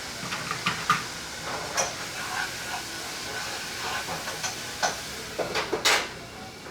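Frying pan sizzling steadily, with scattered clicks and knocks of utensils against the pan and dishes; one louder knock near the end.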